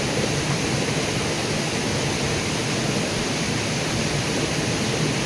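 River water rushing steadily, an even wash of noise with no pauses.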